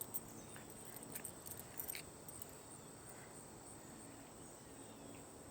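Faint, steady high-pitched chirring of crickets or other insects, with a few soft clicks in the first two seconds.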